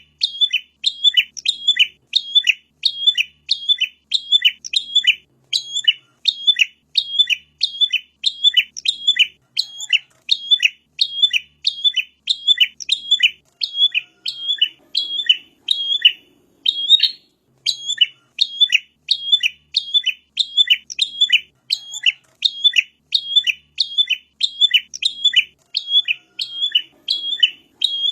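Prinia (prenjak) calling in a fast, steady series of sharp chirps, about two a second, each a short note sweeping downward.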